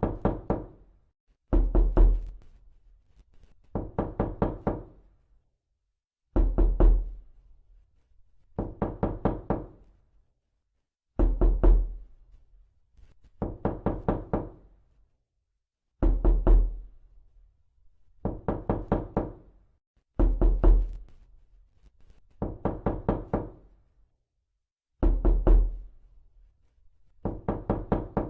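Repeated knocking: quick bursts of several rapid knocks, a burst about every two seconds, each separated by a short silence.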